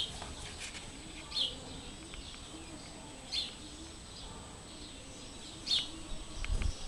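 A small bird calling in the background: short, high, falling chirps repeated about every two seconds, four in all. A few low thumps come near the end.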